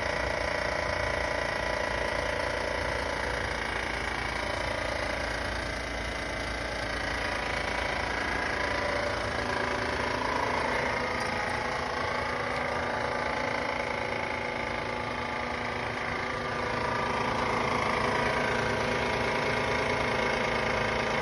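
A van running, with a steady noise and several tones that slowly drift up and down in pitch.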